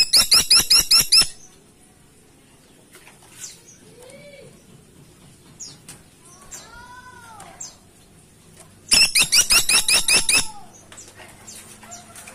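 Caladi tikotok woodpecker giving two loud bursts of rapid, sharp call notes, about seven or eight notes in each. One burst comes right at the start and the other about nine seconds in. Fainter bird whistles and calls come in between.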